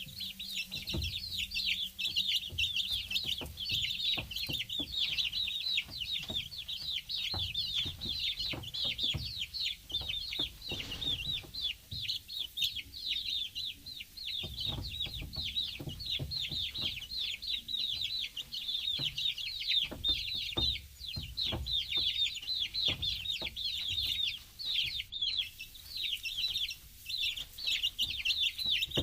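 Baby chicks peeping without pause: a dense stream of short, high-pitched cheeps that slide downward, with low thumps now and then.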